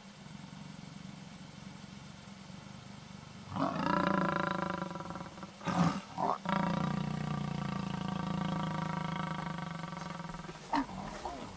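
Lions growling and snarling. After a few seconds of low rumbling, a loud drawn-out snarl starts about three and a half seconds in, then come two short sharp snarls and a second long snarl of about four seconds.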